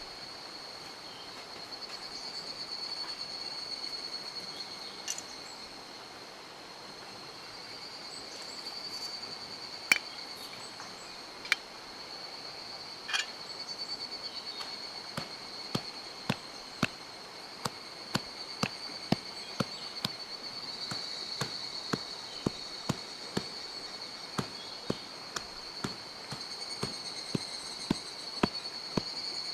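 Steady high-pitched trilling of insects over a soft rushing background. From about halfway on, sharp pops and clicks come more and more often, one or two a second by the end.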